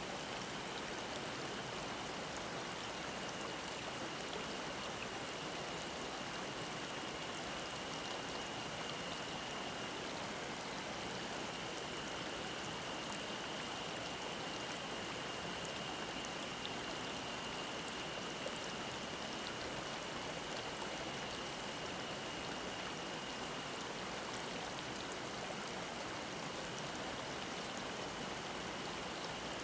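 Mountain stream babbling over rocks in a steady rush, with cicadas singing a continuous high-pitched drone over it.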